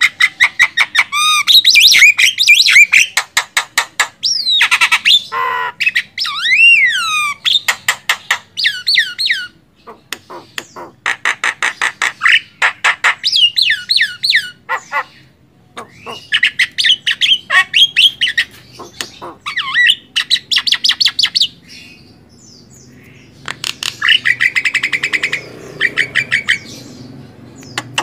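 Javan myna singing: fast runs of harsh, clicking chatter mixed with whistled notes that slide up and down, in phrases separated by short pauses.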